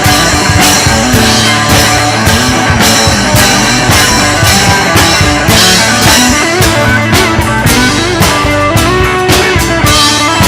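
Live rock band playing an instrumental break: electric guitar lines over a steady drum-kit beat.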